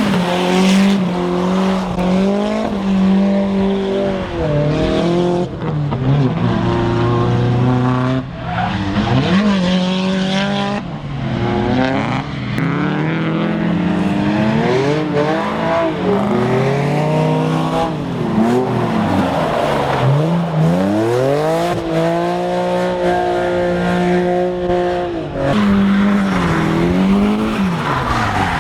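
Drift car engines revving hard on a wet track, the engine note held high for stretches and repeatedly dropping and climbing again as the throttle is worked through slides, with bursts of tyre noise.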